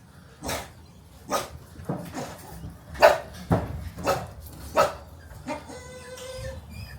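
Staffordshire Bull Terrier puppies yapping, a string of short barks every half-second to second, with a drawn-out whine near the end.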